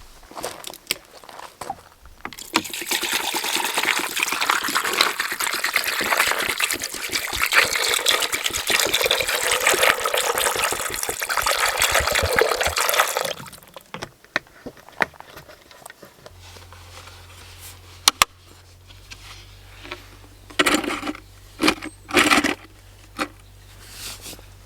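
Liquid pouring or running steadily for about eleven seconds, then cutting off suddenly, followed by a few scattered clicks and knocks.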